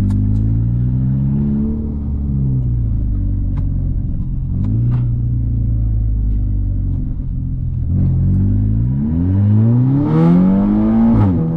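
Volkswagen Golf R Mk6's turbocharged 2.0-litre four-cylinder, running a stage 2 tune with a downpipe and a poorly done muffler delete, being driven. Its note rises, then holds as a steady low drone, and about eight seconds in it revs up hard before dropping sharply near the end.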